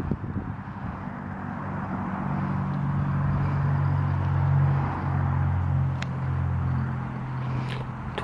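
A low, steady engine hum that grows louder about two seconds in and eases off near the end, over outdoor background noise.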